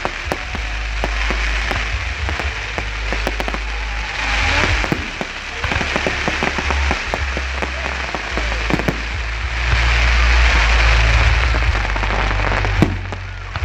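Fireworks display: dense crackling and popping of bursting firework stars, with a strong low rumble beneath and a sharper bang a little before the end.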